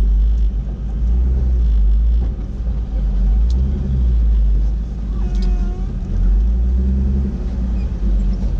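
Deep rumble of a Jeep rolling slowly, swelling and easing every second or two. A faint voice comes through about halfway.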